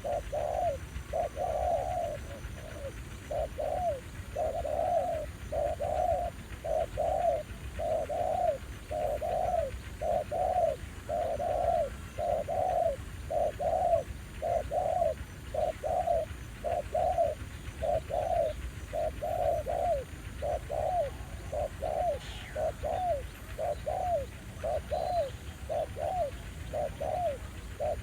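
Spotted dove cooing over and over, a steady run of low coo notes at about two a second, with a low rumble underneath.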